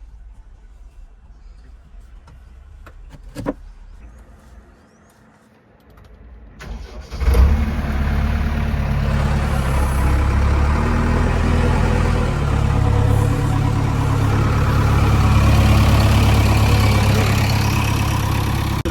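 After several quiet seconds with one sharp click, a heavy diesel engine starts about seven seconds in and runs loudly, its engine speed shifting a couple of times.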